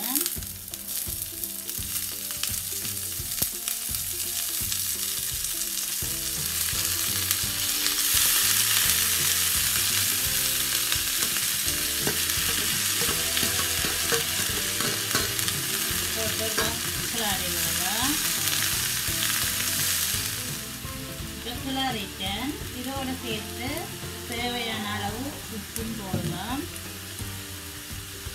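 Shredded cabbage sizzling as it is fried in hot oil in a wok and stirred with a spatula. The sizzle is loudest through the middle and eases in the last several seconds.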